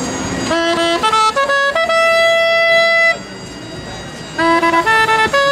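A loud wind instrument plays a tune in separate held notes over street noise: a few short notes, one long held note, a brief pause, then a quicker run of short notes near the end.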